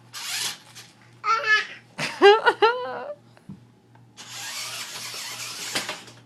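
A young child laughing and squealing in a few short high-pitched bursts, followed about four seconds in by a steady rushing noise lasting a couple of seconds.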